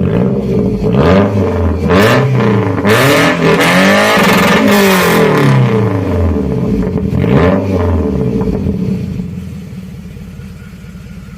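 Subaru flat-four engine with a modified exhaust being revved in repeated blips, one held higher and longer in the middle, each rising and falling in pitch. It drops back to a steady idle near the end.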